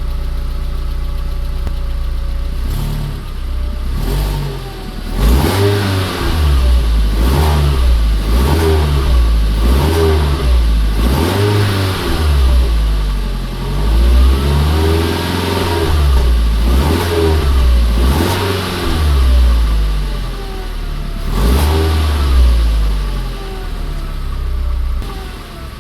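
2002 Audi A3's engine idling, then revved in a long series of quick blips, each rising and falling back, before settling to idle near the end. The exhaust runs quietly, with its cracked pipe ahead of the catalytic converter freshly welded and the stock muffler still on.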